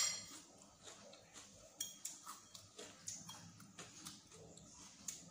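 Chewing a mouthful of raw onion and cucumber salad close to the microphone, with small irregular clicks and ticks of a metal fork and spoon against a ceramic plate; one sharp click comes at the very start.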